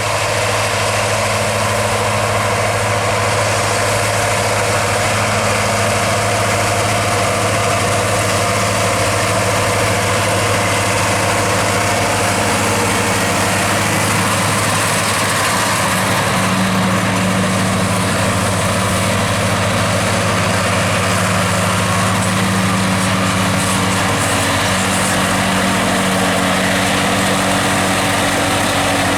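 Massey Ferguson 3630 tractor engine running steadily under load while driving a John Deere 1360 mower, with a low hum and the even rushing of the mower working through the grass.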